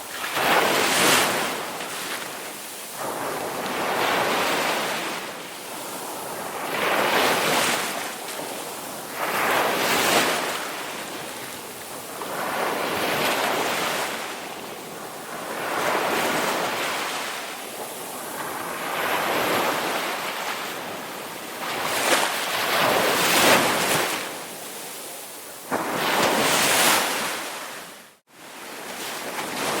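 Ocean waves breaking and washing in, surging and fading every two to three seconds. Near the end the sound cuts out almost completely for a moment, then resumes.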